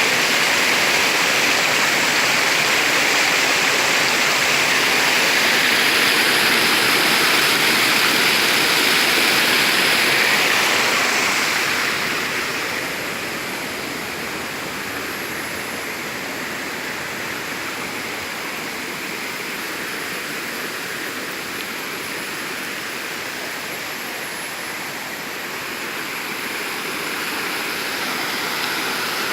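Waterfall rushing in a steady roar of water; it falls off in level about twelve seconds in and grows a little again near the end.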